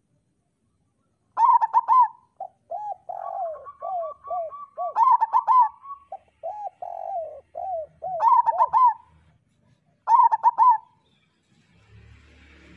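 Zebra dove (perkutut) cooing: phrases of quick rippling coos starting about a second in, with overlapping coo series between them. A faint hiss of noise begins near the end.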